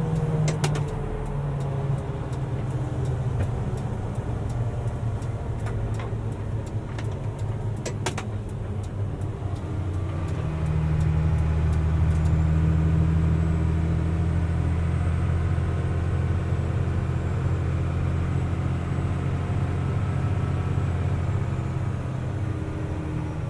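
Mercedes-Benz Unimog U500's inline-six turbo diesel cruising in top (eighth) gear, a steady low drone with road noise. A few sharp knocks come near the start and about eight seconds in, and about ten seconds in the engine note grows louder and stays up.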